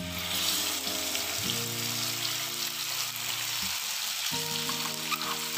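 Tomato-beetroot puree poured into hot oil and butter in a frying pan, sizzling sharply the moment it hits the fat and sizzling on, with a few spattering pops near the end.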